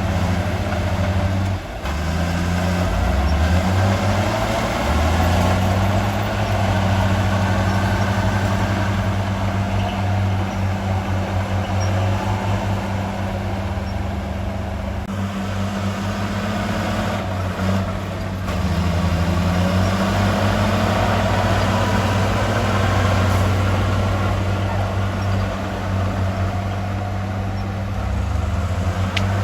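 Heavy diesel engine of earthmoving machinery running continuously, its pitch shifting up and down as the revs change.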